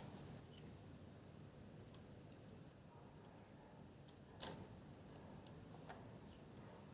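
Near silence, with a few faint scattered clicks and one sharper click about four and a half seconds in.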